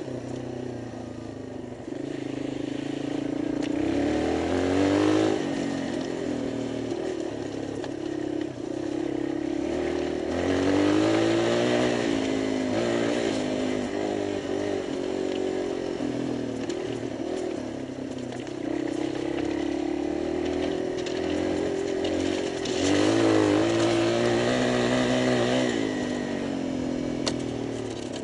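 Yamaha XT225 dual-sport motorcycle's single-cylinder four-stroke engine running under way, its pitch rising and falling with the throttle over rough ground. It climbs to louder surges about 4, 11 and 23 seconds in.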